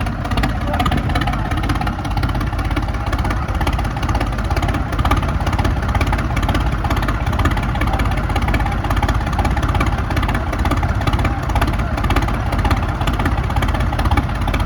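Tractor diesel engine running steadily, a continuous low drone without pauses.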